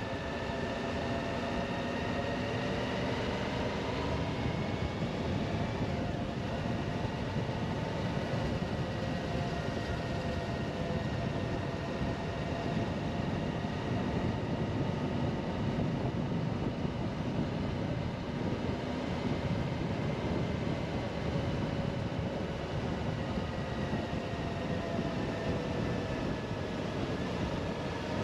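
Suzuki V-Strom 1050XT's V-twin engine running at a steady cruise under heavy wind and road noise, its pitch drifting gently up and down.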